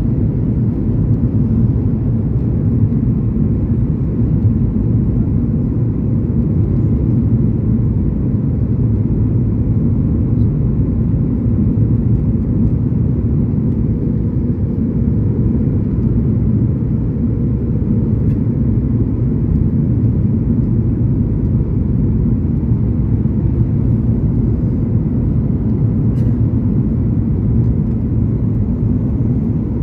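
Steady low rumble inside an airliner's cabin, engines and airflow running evenly with no sharp events.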